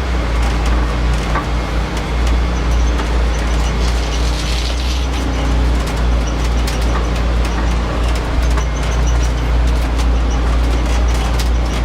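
Food truck engine rumbling steadily from inside the cab as the truck drives and manoeuvres, with loose equipment and fittings rattling and clicking throughout.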